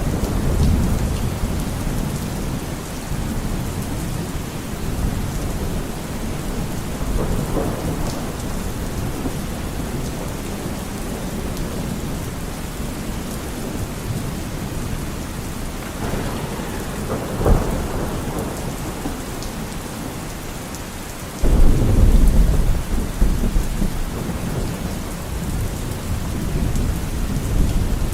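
Thunderstorm: steady rain with rolling thunder. Low rumbles near the start, a sharp crack past the middle, and a loud peal that starts suddenly about three-quarters of the way through and rumbles on.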